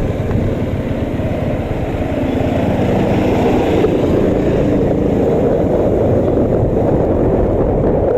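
Bajaj Dominar 400 motorcycle on the move, its single-cylinder engine running steadily under a dense low rush.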